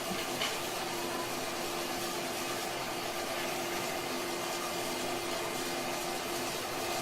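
A cleaning machine's pump motor runs steadily with an even hum, under the hiss of a fine half-mist water spray rinsing an air conditioner's evaporator coil.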